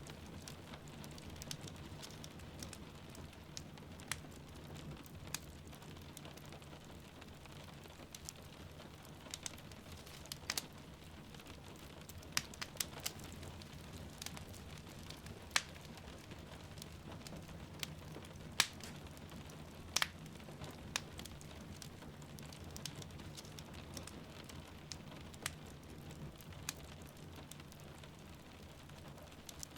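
Wood fire crackling, with sharp pops at irregular moments, over a steady hiss of rain.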